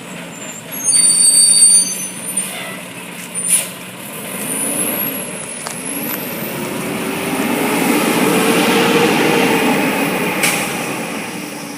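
Garbage truck's air brakes hissing and squealing about a second in, then its diesel engine revving and rising in pitch as the truck pulls away, loudest near the end before fading.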